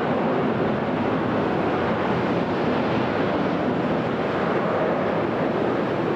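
Steady, even jet noise from a departing Frontier Airbus A321neo (A321-271NX), whose Pratt & Whitney geared turbofans run at takeoff power.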